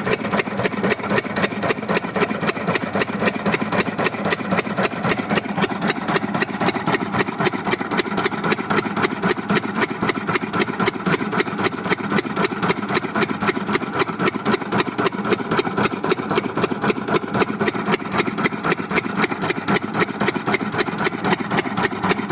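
Engine driving a water pump, running steadily with an even beat of about four to five firing strokes a second.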